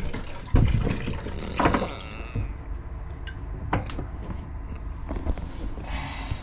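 Liquid running and splashing into a container that has filled to the brim. The flow eases off after about two and a half seconds, with a few sharp knocks.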